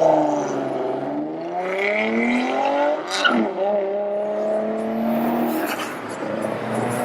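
A car engine accelerating hard through the gears: the pitch climbs, drops sharply at an upshift about three seconds in with a short sharp pop, climbs again, then falls away as the driver lifts off.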